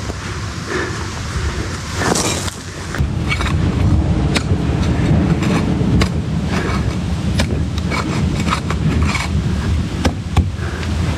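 An engine running steadily with a low hum, under scattered short scrapes and clicks of hand finishing tools on fresh concrete.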